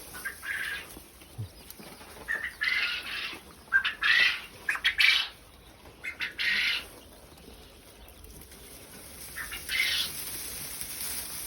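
Quail flapping their wings in several short bursts of flutter, the loudest in the middle of the stretch.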